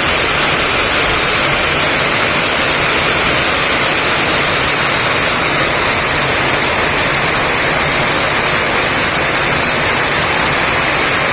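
Heavy downpour in strong wind: a steady, loud hiss of rain.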